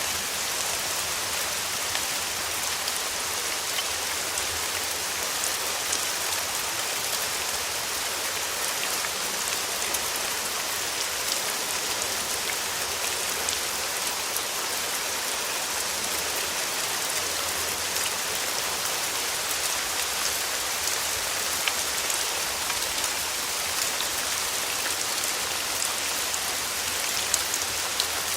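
Steady summer rain falling, a constant hiss with many small drop ticks scattered through it.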